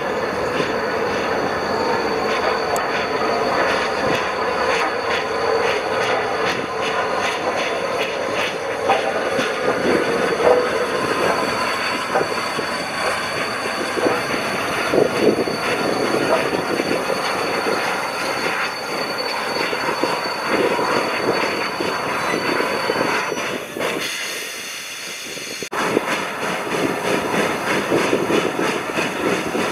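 Train running on the rails: steady wheel and track noise with many clicks and rattles, and a thin high squeal through the middle. The noise drops away for about two seconds near the end, then comes back abruptly.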